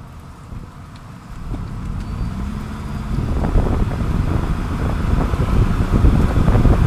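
Underbody road and tyre noise from a Toyota Prius (30 series) pulling away and gathering speed, a low rumble that grows steadily louder from about a second and a half in, with a faint rising whine shortly after.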